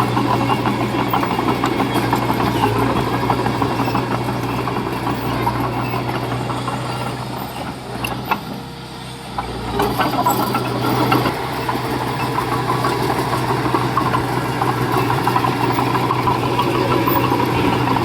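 Heavy-equipment diesel engine running steadily with a constant hum. It eases off for about two seconds around the middle, then picks back up.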